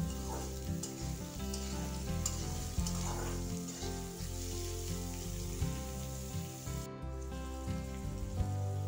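Diced tomatoes sizzling as they fry in hot oil in a pan, with a spatula stirring and scraping through them a couple of times. The sizzle drops out briefly about seven seconds in. Background music plays underneath.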